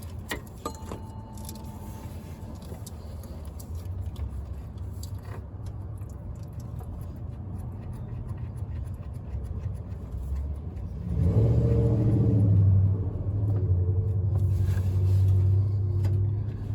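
Low engine rumble that builds slowly and then grows much louder about eleven seconds in, staying loud and steady, with a few light clicks near the start.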